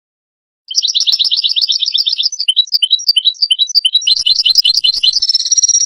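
European goldfinch song: a fast twittering trill that breaks into varied chirps and short trills, starting suddenly out of silence just under a second in.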